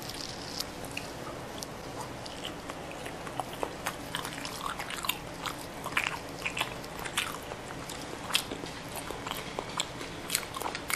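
A person chewing a mouthful of tuna: many small, irregular mouth clicks and smacks.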